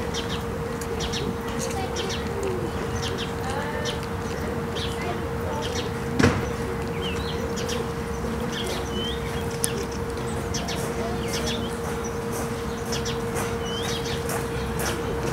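Small birds chirping and calling, with many short high chips and brief whistled notes, over a steady low hum. A single sharp knock about six seconds in.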